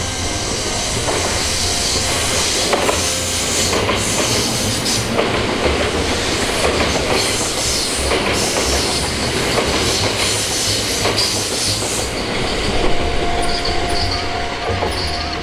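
Kintetsu 50000-series Shimakaze limited express electric train running past close by, a continuous loud rumble of wheels on rail with clicks as the wheels cross rail joints. A steady high tone comes in near the end.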